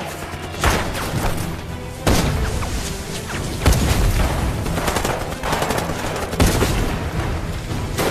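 Film battle soundtrack: volleys of gunfire mixed with heavy booms of explosions, with a music score underneath. Several especially loud blasts stand out among the shots.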